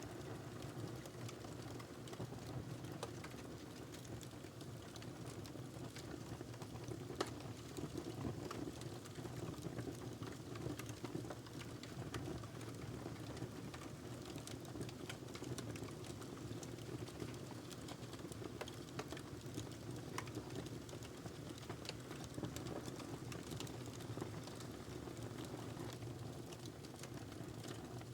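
Wood fire burning in a fireplace: a steady low rush of flames with frequent small crackles and pops, one sharper pop about seven seconds in.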